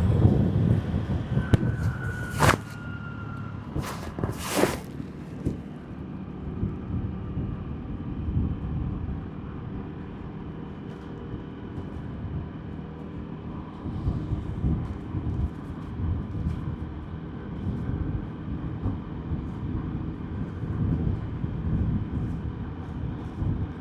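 Motorbike running on the road, heard from the rider's seat: a steady low engine and road rumble with wind noise. A brief steady high tone sounds about two seconds in, and two sharp clicks come about two seconds apart near the start.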